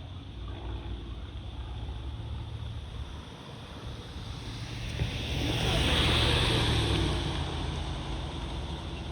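Jet aircraft passing overhead: a broad engine roar that swells to a peak about six seconds in and then fades, over low wind rumble on the microphone.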